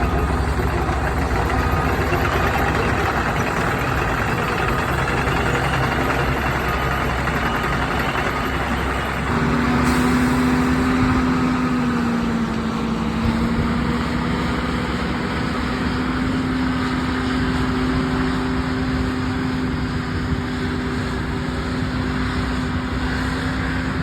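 Heavy road-construction machinery running steadily during asphalt milling, a continuous diesel engine rumble. About nine seconds in, a steady hum comes in and holds to the end.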